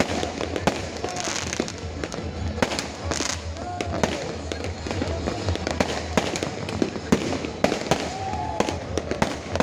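Fireworks bursting: a dense, continuous run of sharp bangs and crackles, several a second, some louder than the rest.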